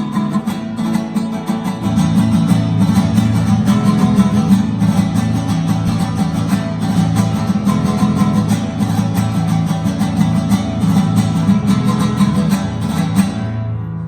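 Guitar strummed in a steady, fast rhythm as it is checked on its own through a PA, with fuller, deeper notes coming in about two seconds in; the playing stops just before the end.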